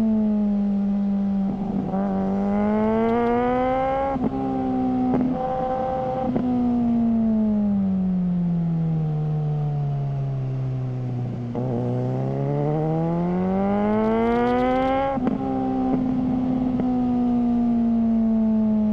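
Suzuki GSR600 inline-four running through a GPR Ghost aftermarket exhaust while ridden. The revs climb and then drop at a gear change about four seconds in. They fall away for several seconds as the bike slows, then climb again to another upshift about fifteen seconds in, after which the engine runs at steady revs.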